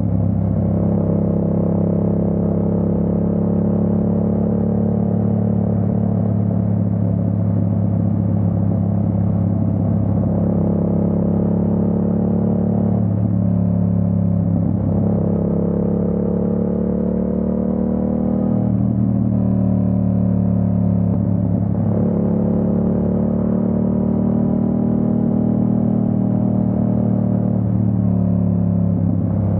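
Yamaha MT-07's parallel-twin engine running under way, its pitch stepping down and climbing back up several times as the revs change.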